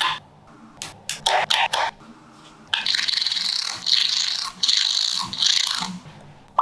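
Small magnetic balls clicking and rattling against each other. A few quick clicks come about a second in, then a few seconds of continuous gritty rattling and scraping as many balls shift and snap together.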